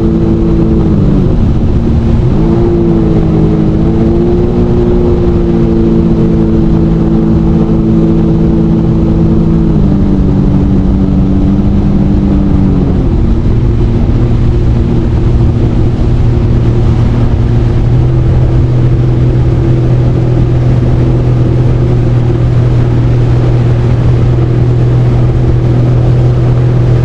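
Jet ski engine running under way over a heavy rush of water and wind. Its pitch dips and comes back up a second or two in, then steps down twice, about ten and thirteen seconds in, and holds lower and steady.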